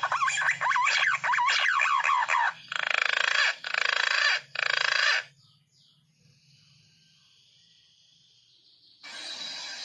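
Green pigeons (punai) calling: many overlapping wavering whistles that slide up and down in pitch, then three harsher, noisier calls, stopping about halfway through. The calls start again near the end.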